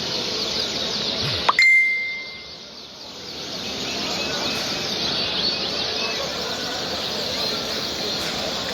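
Many caged songbirds chirping and singing at once, a dense steady chorus of short high notes. About a second and a half in, a sharp click is followed by a brief ringing tone, and the chorus dips for a moment before coming back.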